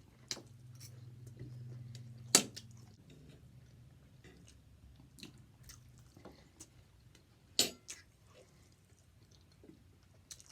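Close-up chewing and biting of chicken and waffles: wet mouth sounds with scattered small crunches and clicks, and two sharper clicks about two and a half seconds in and about seven and a half seconds in.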